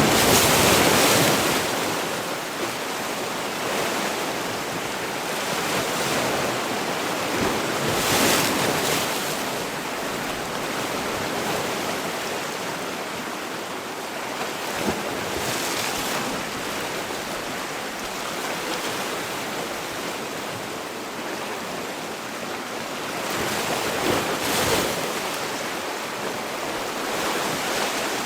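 Sea waves washing in, a steady wash of surf with louder surges as waves break, about every eight seconds, under some wind noise.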